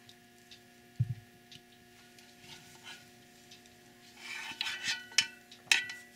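Utensils and containers knocking, clinking and scraping while soap ingredients are handled and mixed, with a dull thump about a second in and a run of sharper clinks near the end.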